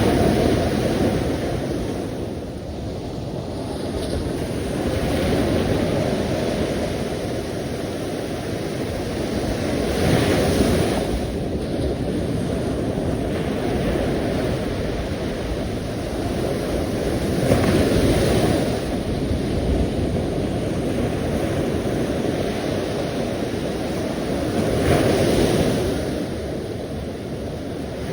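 Sea waves washing onto the shore in a continuous roar, surging about every five to seven seconds as each wave breaks.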